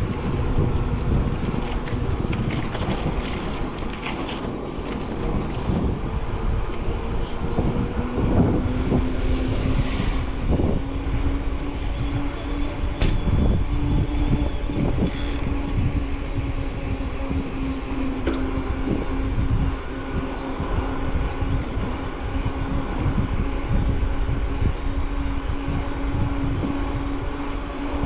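Wind rumbling on the microphone of a bicycle-mounted camera while riding, with a steady low hum under it that steps up slightly in pitch about eight seconds in, and scattered small clicks and rattles.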